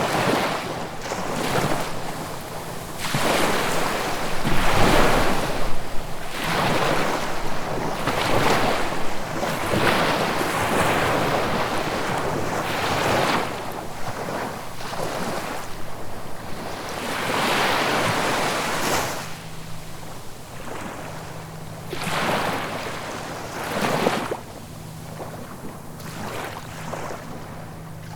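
Ocean waves breaking and washing on the shore in repeated surges, one after another, growing quieter near the end.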